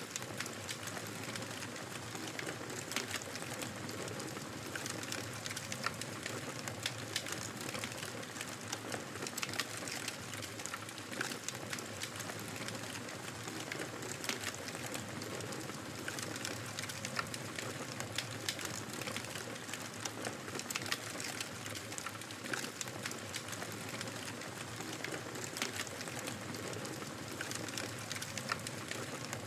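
Wood fire crackling steadily: many small pops and snaps over a soft, even hiss.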